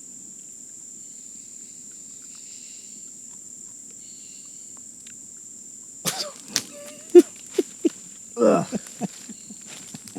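Steady high-pitched insect drone of the rainforest. About six seconds in, a cluster of short sharp clicks and brief vocal sounds breaks in over it.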